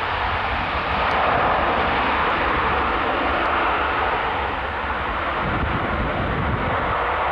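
Airbus A320 jet engines, a loud, steady rushing roar that swells slightly about a second in, with a flickering low rumble of wind buffeting the microphone underneath.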